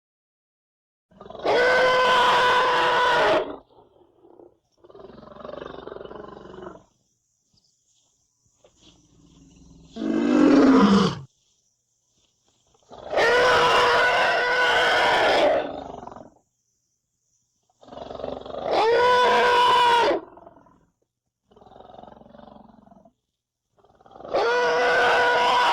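A series of roar-like animal vocal sound effects, about seven separate calls of two to three seconds each with silence between them. Loud calls alternate with quieter ones, and the call about ten seconds in slides down in pitch.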